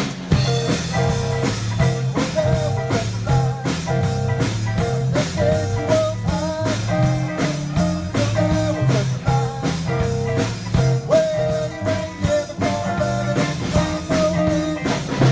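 Live blues-rock band playing an instrumental break: a melodic lead line over bass guitar and a steady drum beat.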